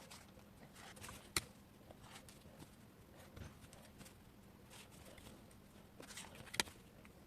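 Felt-tip marker drawn along the edge of a template on fabric: faint, scratchy strokes, with two sharp clicks or taps, one about a second and a half in and one near the end.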